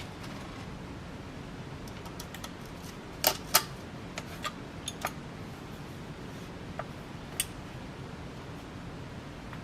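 Scattered sharp clicks and clinks of ceiling fan parts and hardware being handled, with two louder knocks close together about three seconds in, over a steady low hiss.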